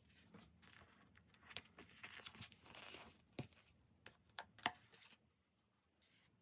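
Quiet desk-work sounds from diary decorating with paper and stickers: a crackly tearing rustle through the middle and several sharp taps, the loudest about two-thirds of the way in.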